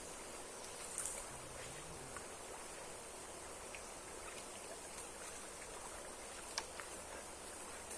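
Steady rush of a waterfall running in strong flow, with a couple of brief faint clicks.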